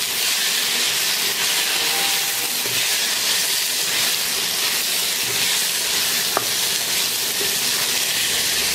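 Vegetables and spice powders frying in hot oil in a non-stick pan, stirred with a wooden spatula: a steady sizzling hiss, with one small click about six and a half seconds in.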